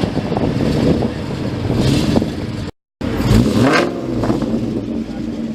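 Car engines running loudly, with a quick rev that rises and falls just after the sound cuts out for a moment about three seconds in.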